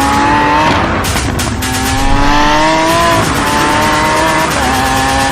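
Lamborghini supercar engine accelerating hard. Its note climbs, drops back about a second and a half in as it shifts up, and climbs again, then holds a steadier note near the end. Music plays underneath.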